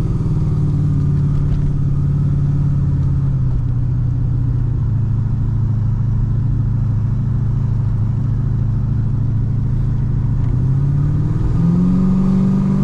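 Cammed LS1 V8 of a Holden SS Commodore heard from inside the cabin while driving. The engine note climbs at first, eases down about four seconds in and holds steady, then climbs again near the end.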